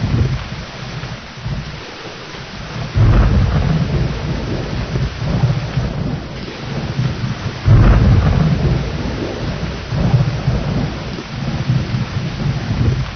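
Steady rain with rolling thunder. Deep thunder rumbles break in suddenly about three seconds in and again just past the middle, the second one loudest, then die away under the rain.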